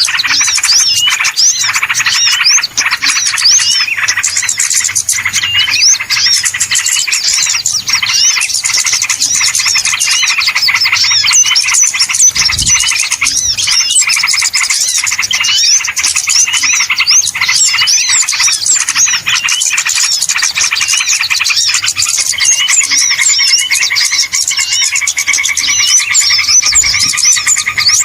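A dense, busy chorus of many small songbirds chirping and twittering rapidly over one another without a break, a bird-luring call recording meant to draw in small birds.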